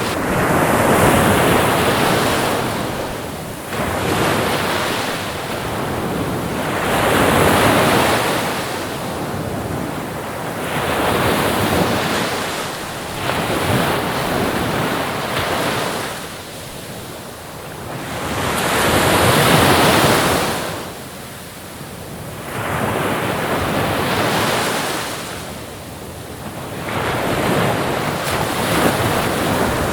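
Ocean waves breaking and washing on a shore, one surge of surf every three to four seconds, the biggest swell about two-thirds of the way through.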